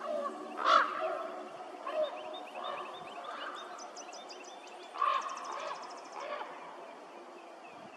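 Wild birds calling: short, sharp calls about a second in and again at about five seconds, with quicker high chirps and a fast high trill in between.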